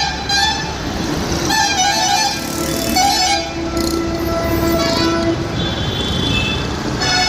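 Vehicle horns honking, several long tones overlapping and changing pitch every second or two, over a steady low engine rumble.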